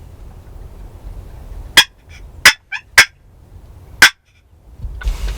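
Wild turkeys gobbling: four short, sharp bursts spaced half a second to a second apart, with fainter warbling calls between them.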